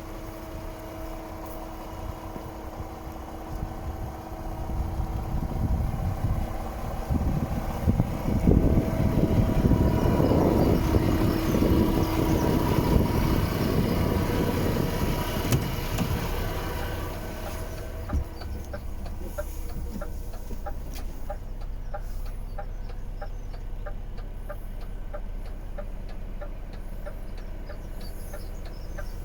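DAF XF 460 truck's PACCAR MX-13 six-cylinder diesel engine running. It rises in revs and loudness for about ten seconds a quarter of the way in, then settles back to a steady idle with a fast, even ticking clatter.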